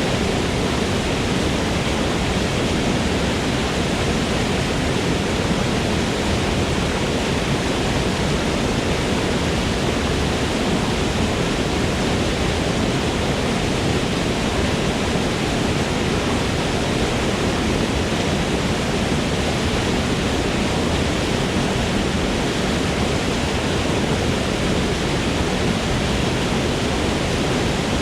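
Forest waterfall: a steady rush of falling water, an even roar with no breaks or changes.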